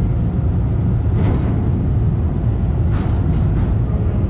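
Steady low rumble of a running engine, with road or water noise over it.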